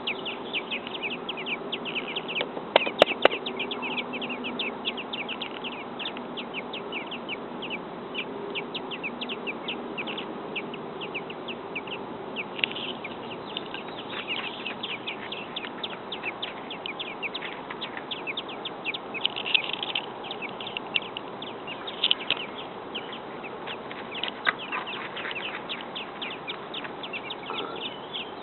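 Robin nestlings begging for food: a continuous chorus of rapid, high peeps from the nest. A few sharp clicks sound about three seconds in.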